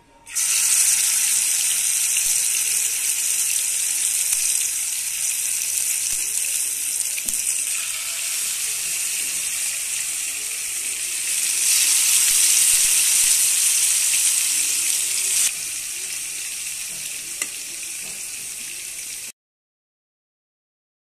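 Spice-marinated mutton chops sizzling in hot oil in a frying pan as pieces are spooned in. The hiss starts abruptly, swells louder about two-thirds of the way through and then eases. It stops suddenly near the end.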